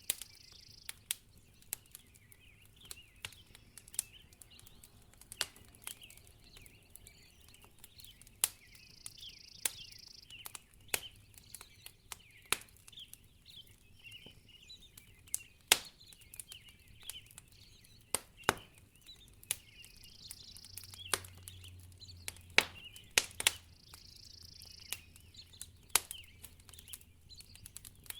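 Wood fire crackling in a fireplace: irregular sharp pops and snaps over a faint hiss.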